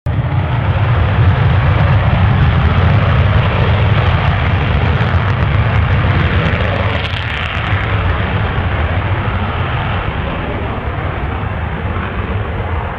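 F-15 fighter jet engines running with a loud, steady roar and heavy low rumble. The roar eases slightly about halfway through, then cuts off suddenly at the end.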